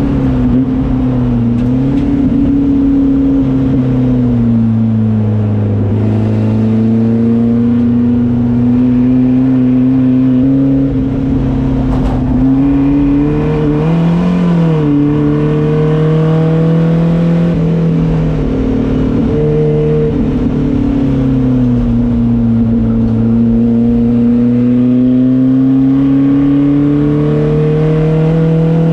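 Race car engine running hard on track, its note rising and falling slowly with speed.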